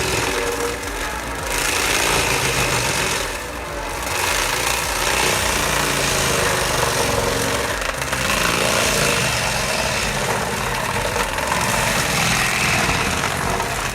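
Heavy machinery running loud: a diesel engine under load with harsh mechanical noise, easing off briefly a few times.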